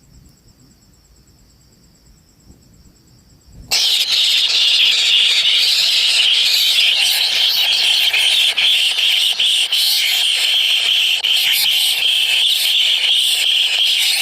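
Kingfisher chicks begging: a loud, continuous high-pitched squealing chorus that starts abruptly about four seconds in.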